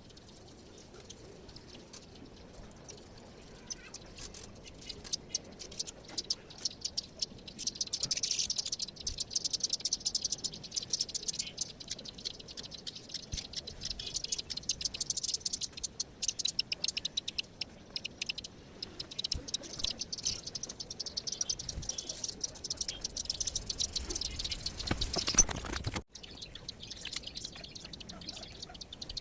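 A flock of small wild birds at a feeding spot, chirping and twittering densely in quick, overlapping high notes that build up after a few seconds. Near the end there is a louder thump, and then the sound drops out abruptly.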